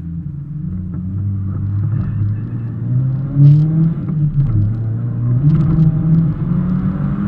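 Mazda MX-5 Miata drift car's engine revving up and down under load, heard from inside the cabin, with a brief loud knock about three and a half seconds in.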